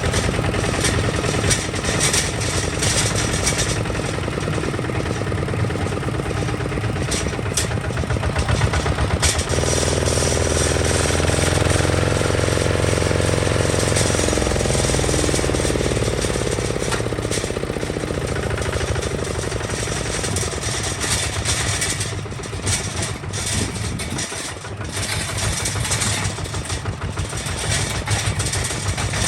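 Kubota ZT155 DI single-cylinder diesel engine of a two-wheel tractor running, a rapid steady chugging. About nine seconds in its note changes abruptly and takes on a steadier humming tone.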